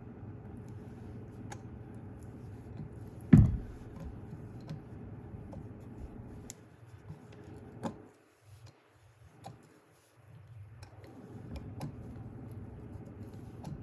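Light metallic ticks and clicks of a hand tap and tap wrench being worked through threaded holes in an aluminum flywheel, with one louder knock about three seconds in.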